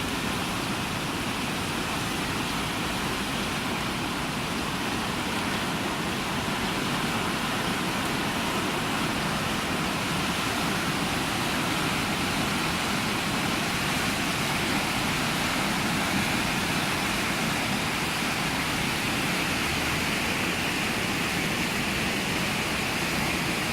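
Steady rushing roar of a river in flood, its muddy water running high after torrential rain.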